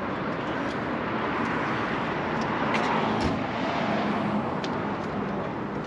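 Outdoor car-meet ambience: a steady wash of vehicle and crowd noise, with a car engine running somewhere and a few faint clicks.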